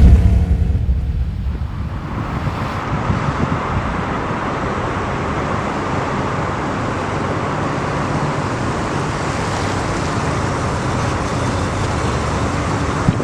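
1989 Dodge 150 pickup truck running: a deep engine rumble loudest in the first second or two, easing into a steady even rush of engine and road noise that cuts off suddenly at the end.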